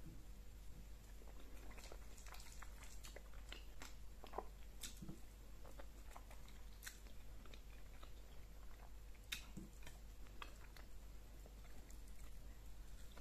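A person chewing mouthfuls of fufu with egusi soup and goat meat: irregular soft clicks and smacks of the mouth.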